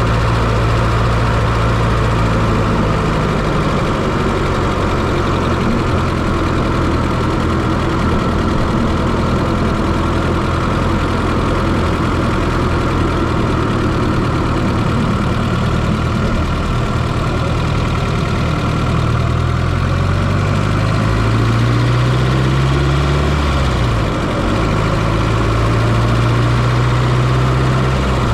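1995 Fiat Coupe 2.0 16V turbo four-cylinder engine running at a steady speed, heard from inside the engine bay. About twenty seconds in, the engine speed climbs for a few seconds, then falls back and settles steady again.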